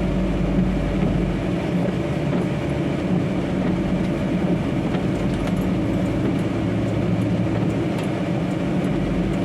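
Truck engine and road noise droning steadily inside the cab while driving.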